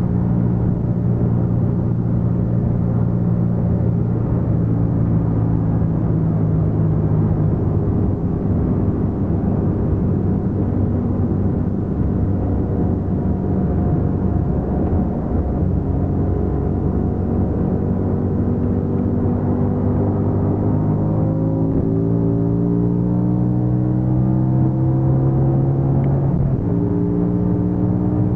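Tuned BMW M5 E60's V10 engine heard from inside the cabin under way at speed, steady at first and then climbing slowly in pitch through a long pull. Near the end the pitch drops at an upshift and starts climbing again.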